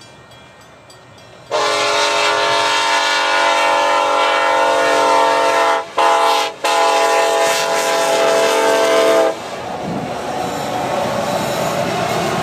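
Kansas City Southern ES44 locomotive's multi-chime air horn sounding about 1.5 s in: a long blast, a short one after a brief break, then another break and a longer blast that stops about 9 s in. It is followed by the steady rolling noise of the passing freight train's wheels and cars.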